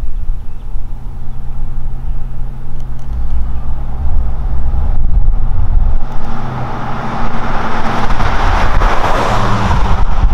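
2014 Chevrolet Silverado 1500 running through a Flowmaster Super 40 Series Delta Flow muffler with a straight pipe in place of the resonator: a steady low exhaust drone. A rushing noise swells over it from about six seconds in.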